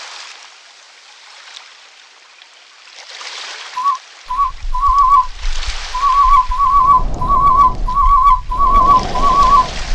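Soundtrack of a quiet hiss that swells and fades, then, about four seconds in, a warbling whistle in short repeated trills joined by a low rumble.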